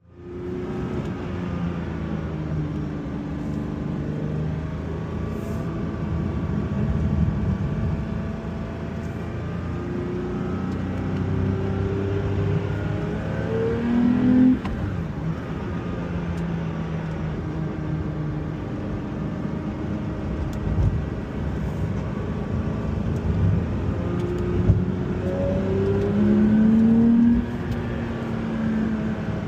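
Porsche 992 911 flat-six engine pulling hard through the gears, its pitch climbing under acceleration and dropping suddenly at each shift or lift. The longest pulls peak about halfway through and again near the end.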